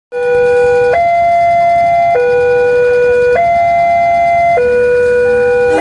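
Loud electronic two-tone hi-lo warning siren, switching between a lower and a higher steady tone about every 1.2 seconds. It cuts in suddenly out of silence.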